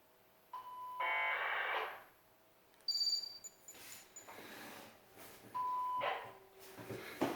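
Electronic beeps and buzzer tones from rocket flight-computer electronics. A steady tone breaks into a harsh buzz, then a short high beep follows, and the tone-then-buzz pattern repeats near the end, followed by a few light clicks.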